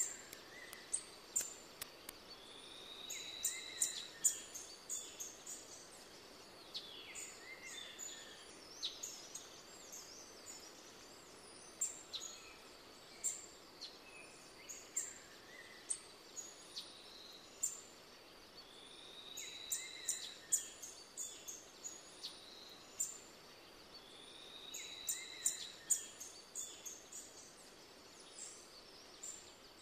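Wild birds calling and singing over a steady outdoor background hiss. Clusters of short, sharp, high chirps come every few seconds, and a few longer whistled notes glide in pitch.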